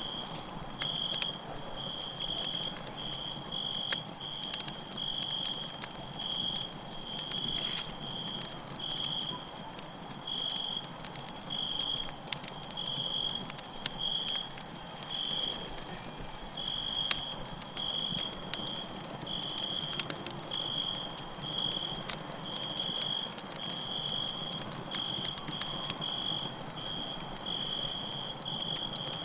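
Campfire crackling, with scattered sharp pops over a steady low hiss of burning wood. Crickets chirp throughout in a steady high-pitched pulse, about two chirps a second.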